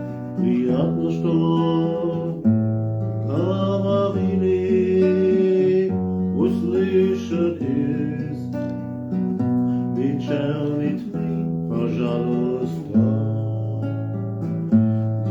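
Acoustic guitar strummed and plucked as accompaniment to a Russian bard song, with a man singing over it in slow phrases.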